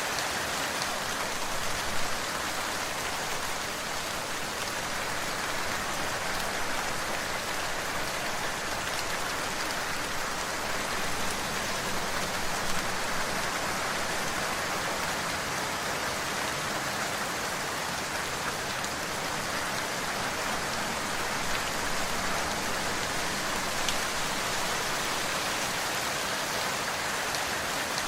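Steady rain falling on a surface, an even hiss with occasional individual drop ticks.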